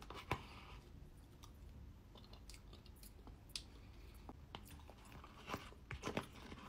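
Faint chewing and mouth sounds of a person eating trifle, with scattered small clicks that come a little more often near the end.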